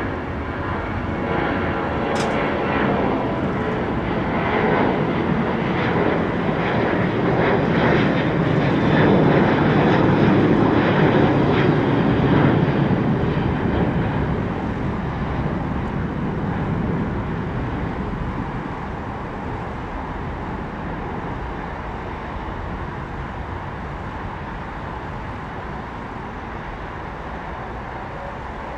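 Jet airliner departing under takeoff thrust, its engine noise building to a peak about a third of the way in and then slowly fading as it climbs away. A faint high whine fades out around the middle, and there is a brief click about two seconds in.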